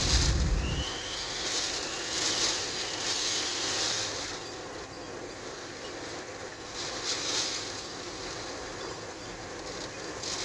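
Severe thunderstorm wind and rain, a steady rush with hissing gusts that swell and ease every couple of seconds. A brief low rumble comes right at the start.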